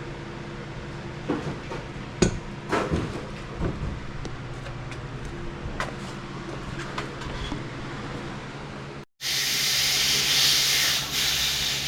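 Steady machine hum with several sharp knocks and clanks of metal work in the first few seconds; after an abrupt cut, a loud hiss lasting about two seconds.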